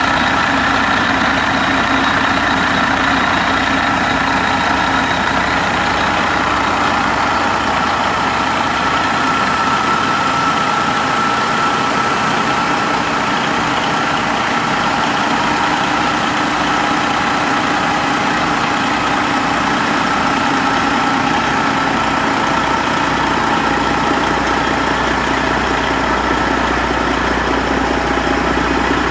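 Detroit Diesel Series 60 12.7-litre inline-six diesel engine idling steadily.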